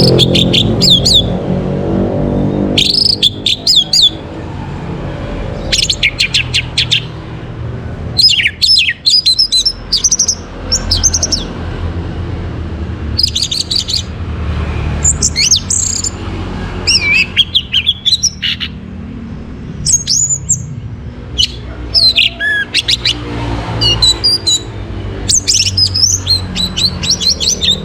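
Orange-headed thrush singing: about ten short, rich phrases of quick varied whistles and trills, each a second or two long, with brief pauses between them. A steady low hum runs underneath.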